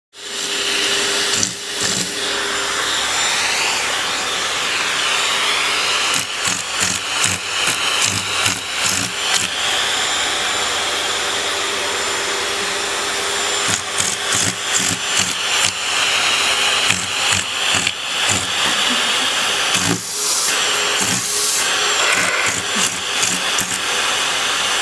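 Vacuum cleaner running steadily, the pitch of its airflow whine shifting now and then. Frequent short knocks and clatter, thickest in the middle and near the end.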